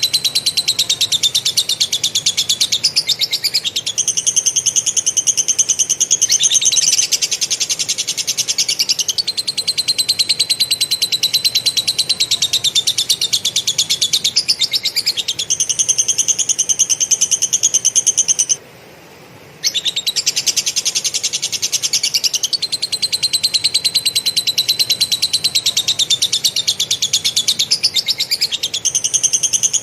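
Kapas tembak (katem) songbird singing a long, very fast rolling chatter full of lovebird-like phrases, high-pitched and nearly continuous, broken once by a silence of about a second past the middle.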